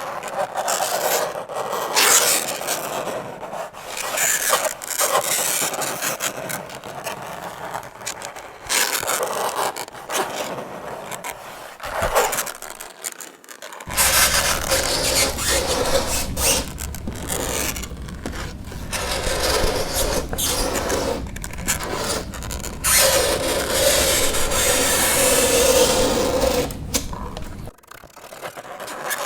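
Fingernails scraping across a chalkboard in a run of rasping strokes of uneven length, with a drawn-out squeal in the last third. A low hum sits underneath from about halfway.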